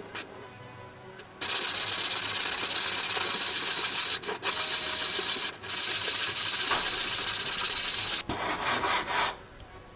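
Black silicon carbide dressing stone rubbed across a sharpening stone to flatten it: a steady, gritty scraping that starts about a second and a half in and has two short breaks. Near the end comes a shorter, duller stretch of scraping.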